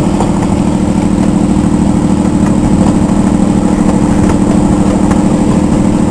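Engine of a miniature zoo train locomotive running steadily as the train rolls along.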